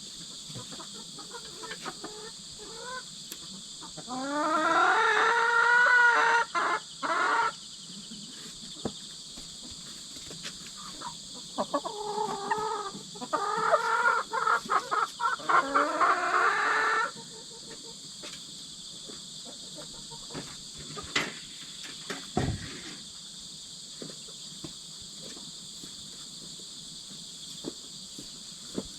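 Chickens giving two loud, drawn-out bouts of squawking calls, each a few seconds long, the first rising in pitch as it starts. Insects trill steadily in the background.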